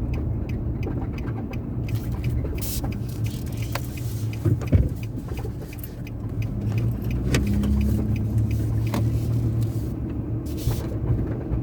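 Nissan Frontier pickup truck driving: steady low engine and tyre rumble of road noise, with small rattles and one sharp thump a little under halfway through, like a bump in the road.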